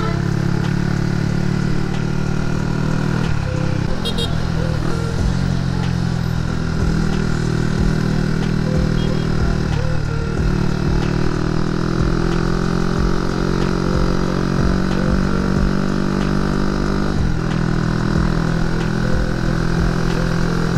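Honda Winner X motorcycle's single-cylinder engine running steadily at riding speed, with road and wind noise. The engine note dips briefly about three times.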